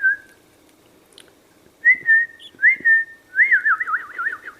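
A person whistling: a short clear note, then two short rising-and-held notes, then a warbling whistle that wavers quickly up and down near the end.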